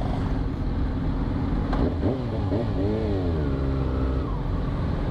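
Four-cylinder motorcycle engines running with a steady low rumble, and one engine revved up and down several times from about two seconds in.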